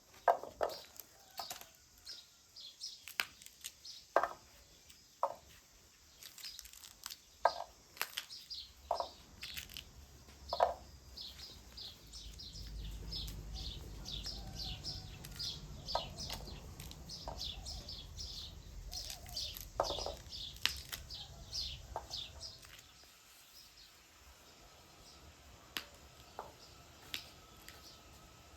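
Fresh fava bean pods being snapped and split open by hand: a long run of short sharp cracks and tearing snaps, with birds chirping and a low rumble through the middle stretch.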